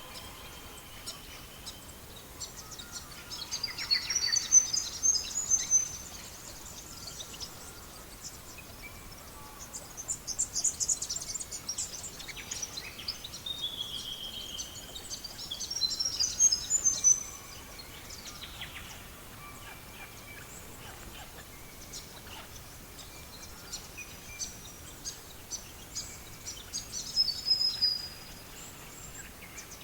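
Songbirds singing in several short bursts of quick high chirps and whistles, one of them a falling whistle, with quieter stretches between. Underneath runs a steady hiss with scattered small crackles from a wood fire.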